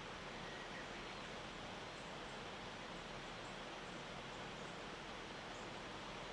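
Steady outdoor morning background hiss in a forested mountain valley, with a few faint, short, high-pitched chirps scattered through it.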